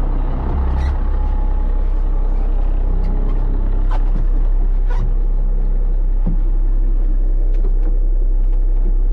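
Fishing charter boat's engine running with a steady low rumble, with a few light knocks.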